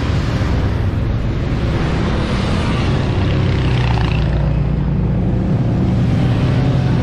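Several motorcycle engines running together in a parade column, a steady low drone whose engine notes drift slowly up and down.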